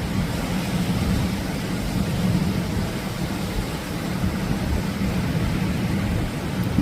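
Atlantic surf rushing onto the beach as a steady roar, heaviest in the low end, with no single wave crash standing out.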